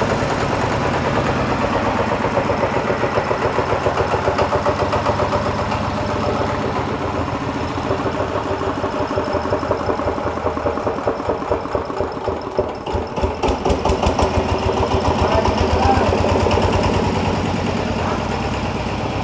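Mitsubishi 90 diesel engine running steadily, with an even, rapid beat of firing pulses.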